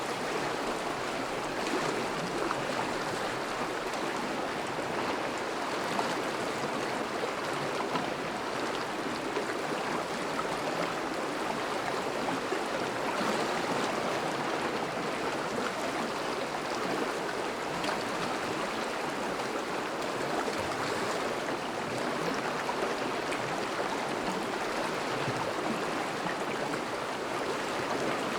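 Thawing river running steadily over its bed, a constant rushing and babbling of water with faint splashes.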